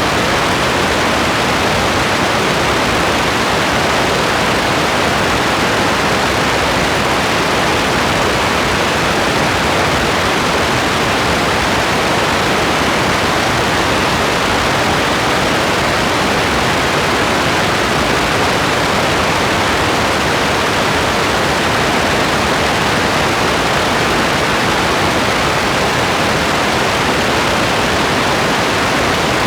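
Rain falling steadily: an even, unchanging hiss with no separate drops or thunder standing out.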